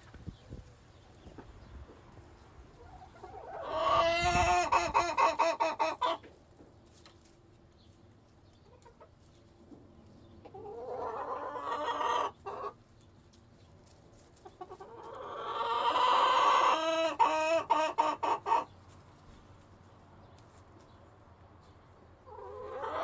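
Chickens calling: three long calls, about 4, 11 and 16 seconds in, each swelling in loudness and breaking into quick pulses near its end, with quiet between them.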